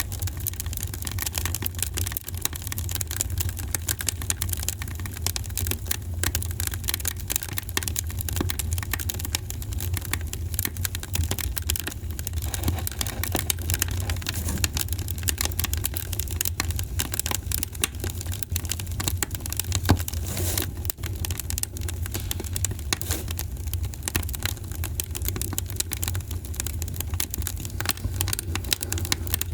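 Wood fire in a fireplace crackling steadily, with dense small pops and snaps over a constant low rumble, and one louder pop about twenty seconds in.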